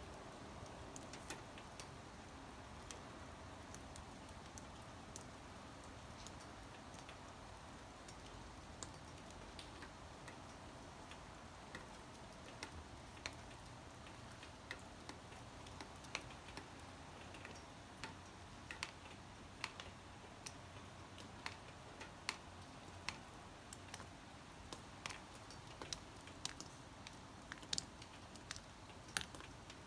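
Scattered raindrops tapping on a surface: irregular sharp ticks over a faint steady hiss, coming more often in the second half.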